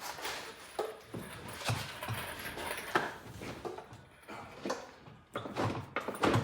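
Irregular knocks, clinks and scraping of metal hardware as the hung outboard motor is pulled free of the boat's transom.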